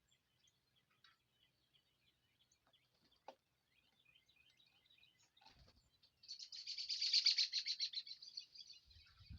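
Small songbirds chirping faintly. About six seconds in, one bird breaks into a loud, rapid trill of about ten notes a second that lasts nearly three seconds.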